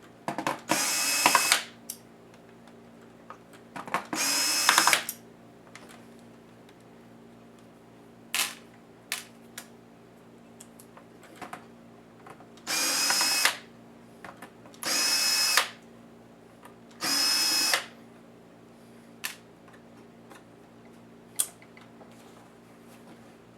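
Small electric screwdriver whirring in about six short runs of a second or so each, backing out laptop case screws, with a few light clicks between runs.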